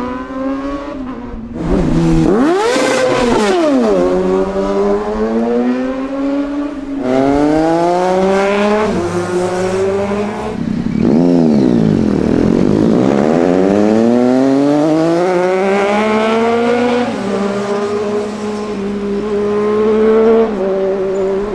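Sport motorcycle engine revving hard, its pitch climbing and falling again and again, with a long dip and climb in the middle; the note steadies near the end.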